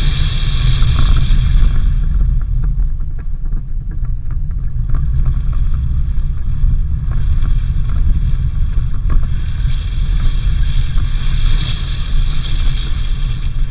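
A vehicle driving, with a steady low rumble from its engine and the road.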